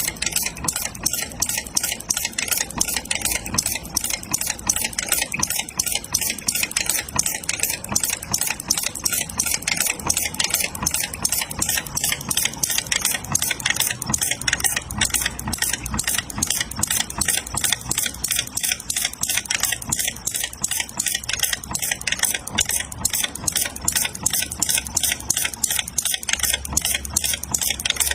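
Small gasoline four-stroke model engine, horizontal and water-cooled, built as an antique hot-bulb tractor engine, running steadily with a fast, even metallic clatter of ticks.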